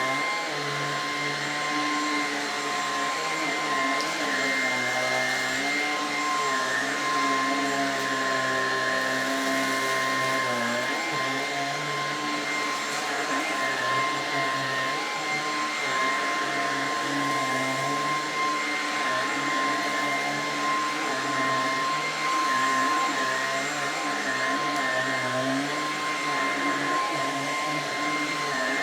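Lupe Pure cordless stick vacuum running on its default suction setting while cleaning thick pile carpet. Its motor gives a steady high whine over a rushing of air, with lower tones that waver as the head moves over the pile.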